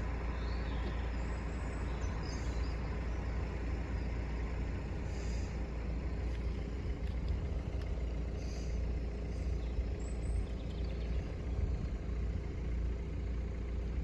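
Steady low rumble of road traffic and wind outdoors, with a few faint high chirps now and then.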